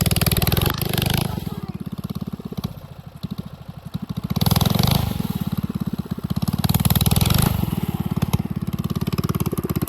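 A gas mini bike's small engine running and being revved, rising in several swells and easing off briefly in between.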